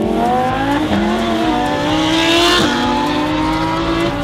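V10 supercar engine accelerating hard, climbing in pitch and shifting up twice, about a second in and again past the halfway mark.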